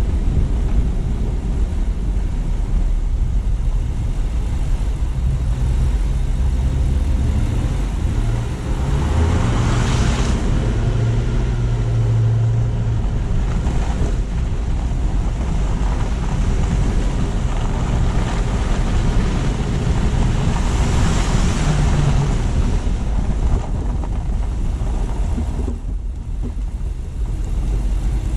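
Steady road noise of a car driving: a low rumble of engine and tyres with hiss over it. It swells louder twice, about ten seconds in and again about twenty-one seconds in.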